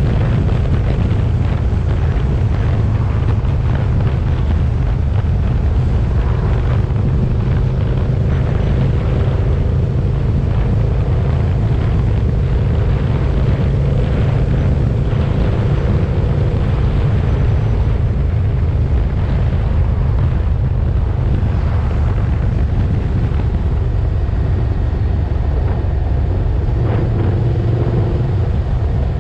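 KTM 1290 Super Duke GT's V-twin engine running at a steady cruise, with wind rumbling over the microphone.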